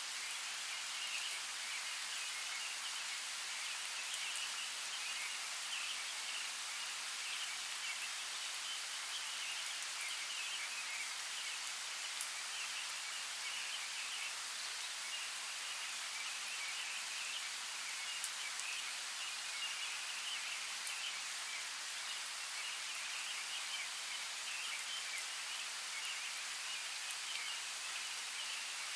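Steady rain, an even hiss with a few sharp drop ticks now and then.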